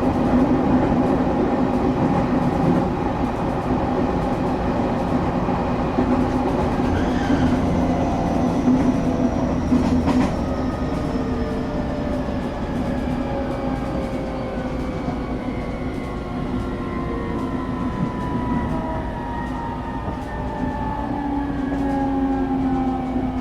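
Running noise inside a passenger train carriage: a steady hum and rumble. Through the second half, whine tones slide slowly down in pitch, as the train begins slowing for the next station.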